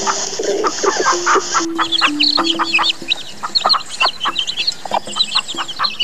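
Chickens clucking, then from about two seconds in a busy chorus of quick, high chick peeps, over background music.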